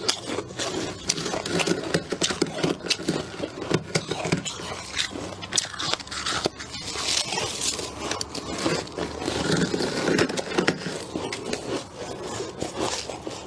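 Freezer frost being scraped and crunched close up: a dense, irregular run of crisp crackling clicks.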